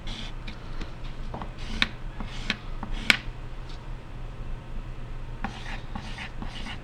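Pencil drawing on paper: short scratchy strokes with a few sharper ticks about two and three seconds in.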